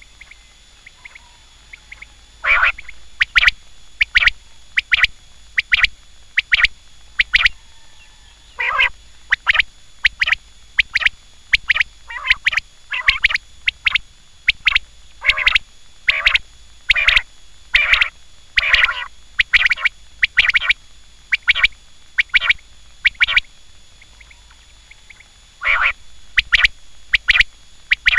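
Quail calling over and over: sharp, short calls given in quick clusters of two or three. The calls start a couple of seconds in, pause briefly, then resume near the end.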